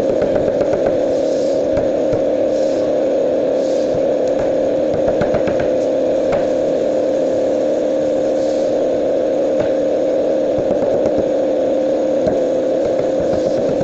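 A steady, unchanging machine hum, with faint scattered ticks over it.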